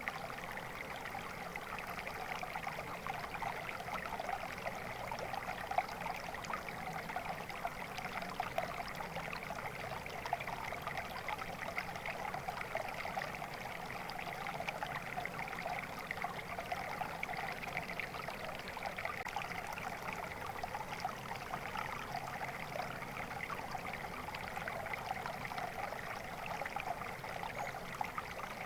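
Flowing stream water running steadily, an even rush without breaks.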